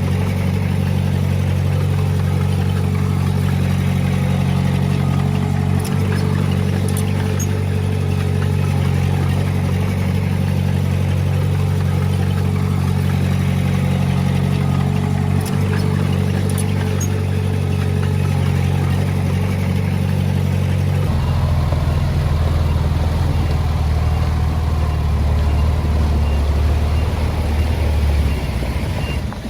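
Diesel engine of heavy earthmoving equipment running steadily under load, its note shifting lower about two-thirds of the way through and easing off near the end.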